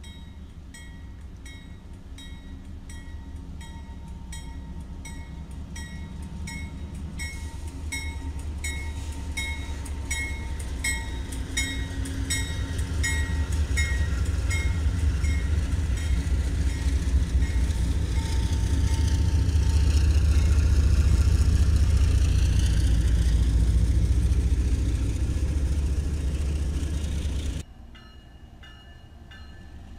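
Railroad crossing bells ringing at an even pace as a diesel freight locomotive approaches and passes close by, its engine rumble building until it covers the bells. The sound drops suddenly near the end to a quieter crossing bell as another train comes up.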